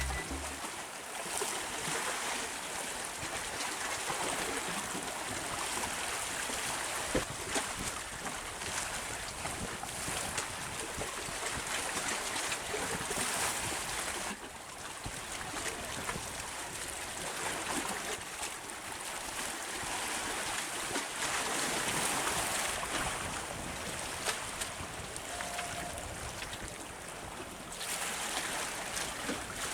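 Steady outdoor rush of wind and moving water, rising and easing every few seconds.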